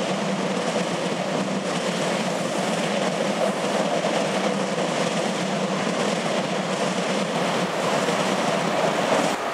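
Double-deck RER D electric train running past on the tracks: a steady, even noise of wheels on rails and the running train.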